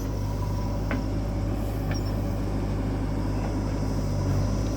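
Diesel engine of heavy earth-moving machinery running steadily with a low hum, with a couple of faint clicks about one and two seconds in.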